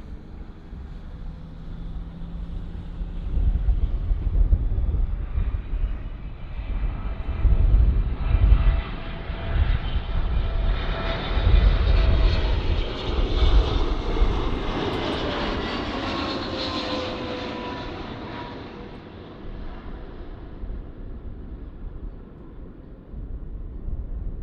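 Airliner flying past, its engine noise swelling and then fading over about fifteen seconds, with tones that drop in pitch as it goes by.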